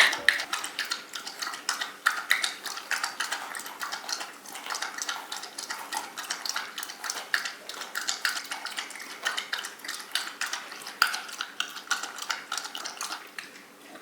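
A dog drinking water, lapping quickly in an irregular run of small wet clicks and clinks against its water dish.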